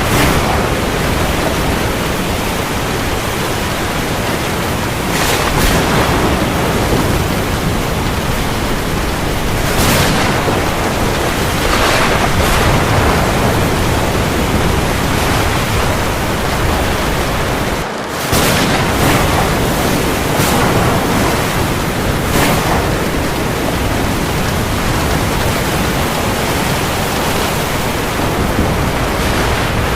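Heavy rain falling as a dense, steady hiss, with louder swells every few seconds. The sound drops out briefly about two-thirds of the way through.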